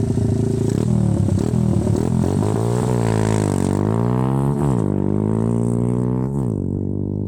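Lifan 110cc pit bike's single-cylinder four-stroke engine running, its pitch falling and rising a few times with the throttle, then holding steady before the engine sound stops about six and a half seconds in.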